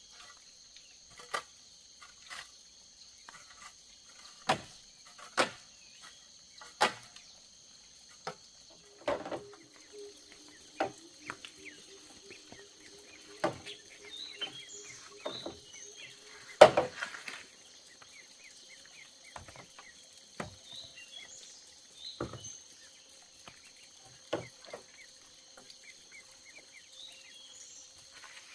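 Irregular sharp knocks and clicks, about one every second or two, with one much louder knock near the middle, over a steady high trilling of insects.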